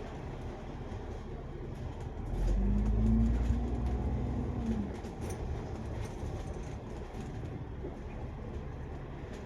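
Double-decker bus cabin noise: the engine and road rumble run steadily, and a louder low hum swells up about two seconds in and fades after about two and a half seconds.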